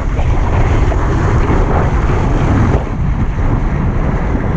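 Water slide ride on a foam mat toboggan: a loud, steady rushing of sliding and water, with heavy wind buffeting on the rider's camera microphone. It eases slightly about three seconds in.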